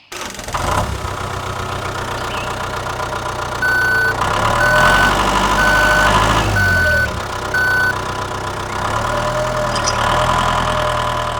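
A vehicle engine idling steadily, growing louder in the middle, with a reversing alarm beeping five times about a second apart.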